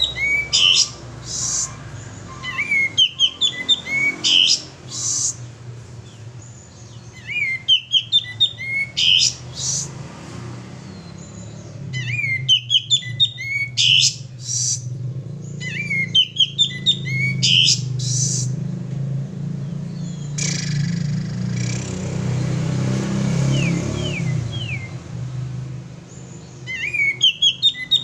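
Male kapas tembak bulbul singing: short bright phrases of quick up-and-down whistled notes, repeated every few seconds, over a steady low hum.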